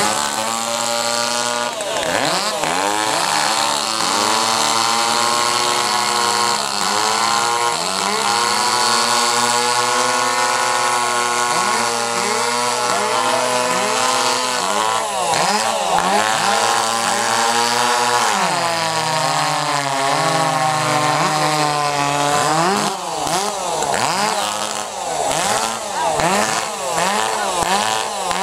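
Small two-stroke competition chainsaws in the 2.0 to 2.3 class running at full throttle through a log. The pitch sags under load and recovers again and again, drops lower for a few seconds past the middle, and swoops up and down rapidly near the end.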